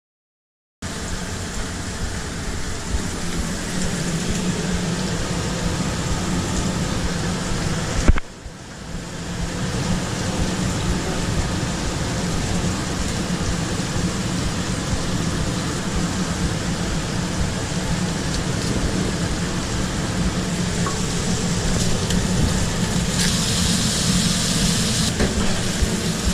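Food truck kitchen running steadily: a constant hum with an even sizzling hiss over it, cutting out briefly about eight seconds in.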